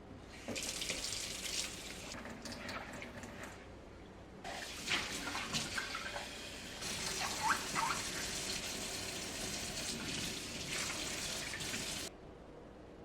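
Kitchen tap running into a sink while dishes are washed, with a few clinks and knocks of dishware. The water eases off briefly partway through, comes back stronger, and shuts off suddenly near the end.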